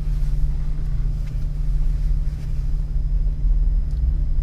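Jeep engine running steadily at low revs, a low, even rumble.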